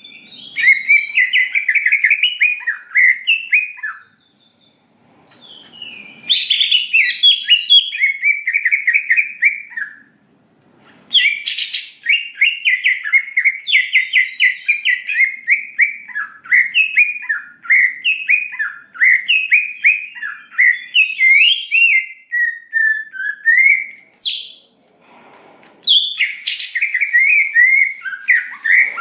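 Green leafbird (cucak ijo) singing in a loud, continuous chattering song: long phrases of rapid, high notes in quick succession, broken by a few short pauses, with some sharp piercing notes. This is the bird in full 'gacor' song used as a bait recording to set other leafbirds singing.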